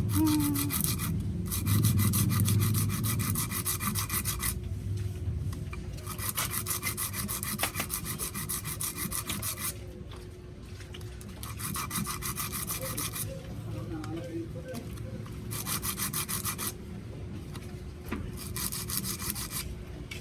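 Slightly worn starter solenoid contacts being scraped clean with an abrasive: spells of fast rubbing strokes, each one to four seconds long, with short pauses between. The contacts' wear is the cause of the starter only clicking and not cranking.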